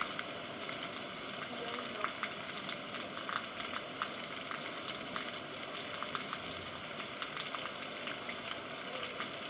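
Steady rain falling, an even hiss of water with many individual drops ticking sharply on a hard surface.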